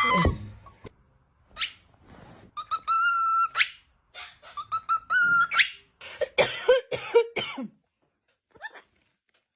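A parrot gives two long whistled notes, each sweeping up at the end, then a quick run of raspy, cough-like sounds.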